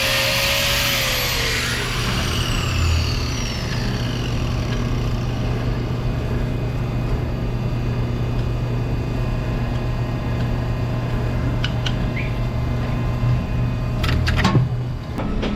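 A hoof-trimming angle grinder winds down, its whine falling in pitch and fading over the first few seconds. A steady low machine hum follows, with a few sharp knocks near the end.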